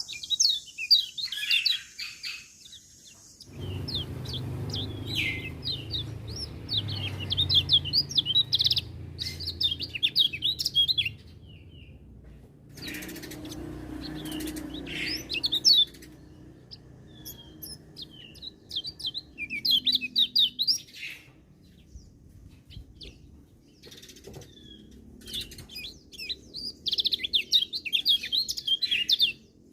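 Kecial kuning (a white-eye) singing a rapid, high twittering song in several bursts separated by short pauses. A low rumbling noise runs underneath part of the time.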